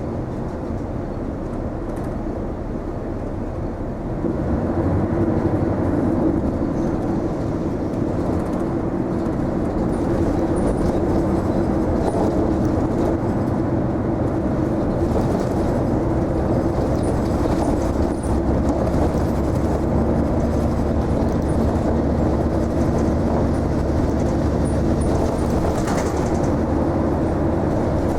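Isuzu Erga non-step city bus heard from inside the cabin while running, a steady engine and road noise with a low hum. It gets louder about four seconds in.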